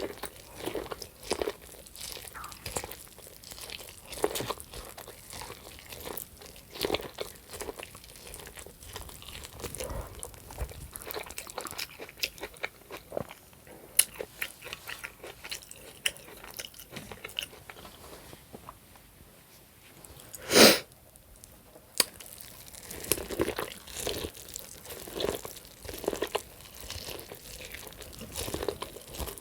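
Close-miked chewing and biting of ribeye steak: irregular wet crunches and mouth sounds, one bite after another. About twenty seconds in there is a single louder, brief noise.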